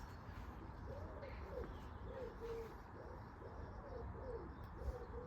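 A bird cooing in a run of short, low, rising-and-falling calls, about two a second.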